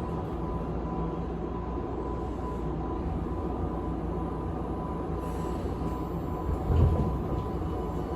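Tokyu 5050 series electric train standing with its doors shut, its onboard equipment giving a steady hum from inside the car. A short low thump comes about seven seconds in, as the train gets ready to pull away.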